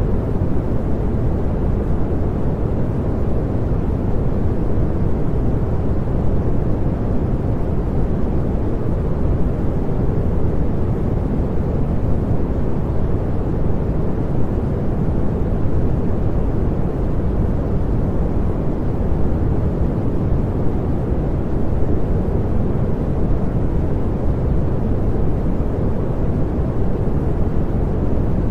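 Continuous synthesized pink noise: a steady, even hiss weighted toward the low end, without any change.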